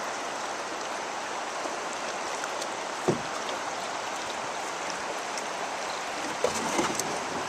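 River water rushing steadily past a canoe in rapids, with one sharp knock about three seconds in and a few more knocks and splashes near the end.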